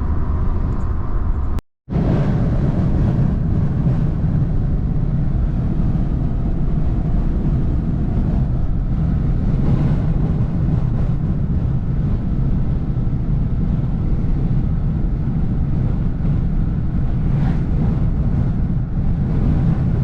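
Steady low rumble of a truck driving, heard from inside the cab: engine and tyre road noise, with the sound cutting out completely for a moment about two seconds in.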